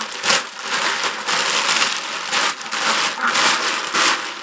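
Repeated rustling and crunching of dry plant material being handled, in uneven bursts about once or twice a second.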